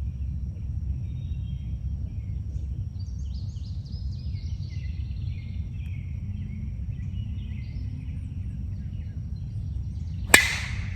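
Small birds chirping in quick overlapping trills over a steady low rumble. About ten seconds in comes one sharp crack, the loudest sound here.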